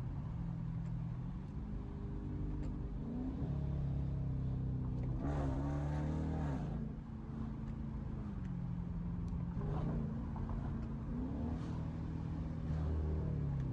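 Straight-piped Dodge Durango exhaust running steadily, its pitch stepping up and down several times, with a louder, harsher stretch about halfway through.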